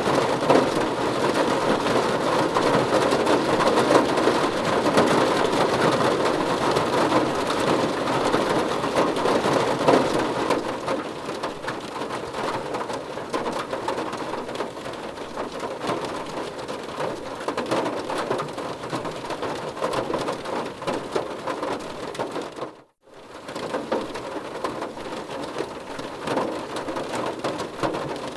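Steady heavy rain falling, a little softer after about the first third, with a brief total dropout to silence near the end.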